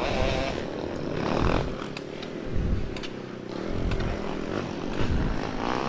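Trail motorcycle engine revving in uneven swells, with a few sharp knocks and clatter.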